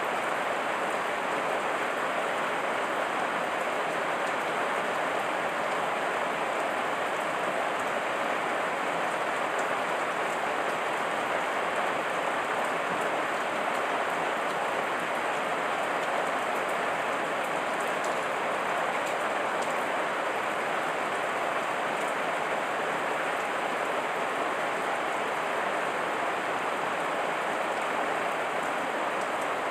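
Heavy rain falling steadily, an even hiss at a constant level with faint ticks of single drops.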